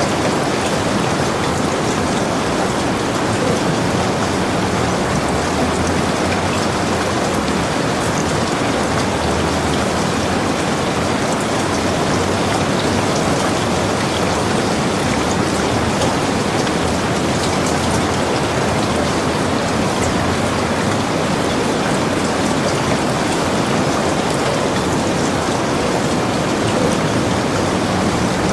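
Heavy rain falling steadily, an even dense patter of drops on surfaces with no letup.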